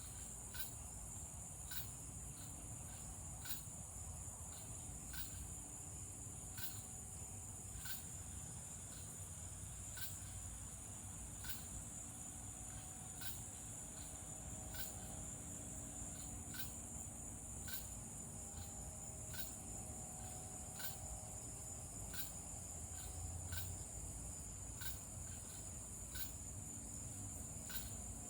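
Evening insect chorus of crickets and cicadas: a steady high-pitched trill, with a sharp chirp repeating about every three quarters of a second.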